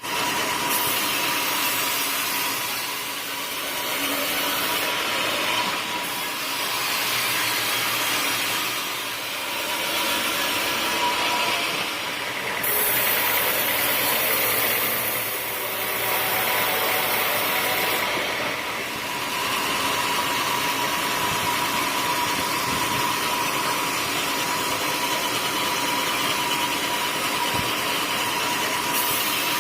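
Sawmill machinery running steadily, a machine drone with a constant high whine and a hiss that swells and eases every few seconds, as teak is sawn.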